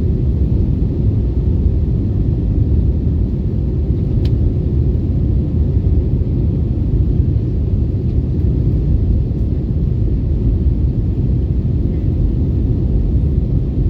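Steady low rumble of cabin noise inside an Airbus A321neo airliner, with one faint click about four seconds in.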